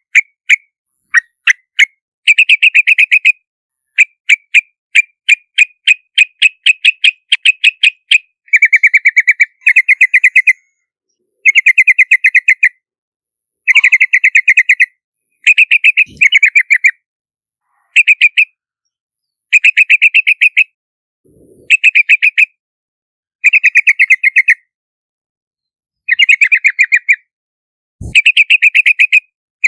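Yellow-vented bulbul calling: bursts of rapid, bubbly chattering notes about a second long, repeated again and again with short pauses between.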